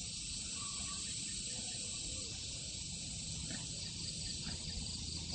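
Steady high-pitched hiss with a low rumble underneath and no distinct events.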